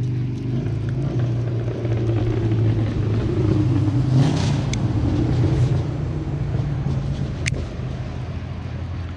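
A motor vehicle engine runs as a steady low hum, swelling louder around the middle and easing off toward the end. Two sharp clicks come about halfway and near the end.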